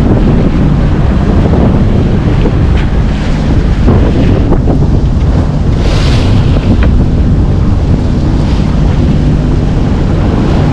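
Strong wind buffeting the microphone over the rush of water and waves around a moving sailing yacht, with a louder splash about six seconds in.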